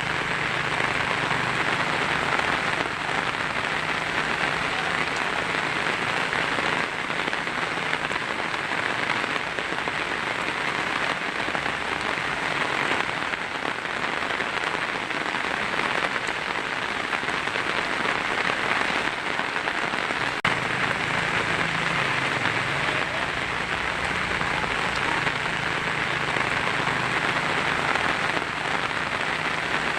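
Heavy rain drumming steadily on a tin roof, an even, unbroken patter with no thunder.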